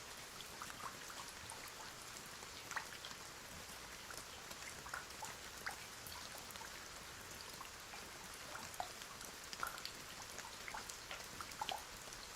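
Rain falling, a steady soft hiss with scattered drips and patters.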